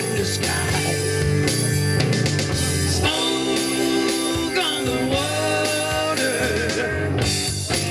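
A rock band playing live, with electric guitar, bass and drums, and a lead line that slides in pitch a few seconds in.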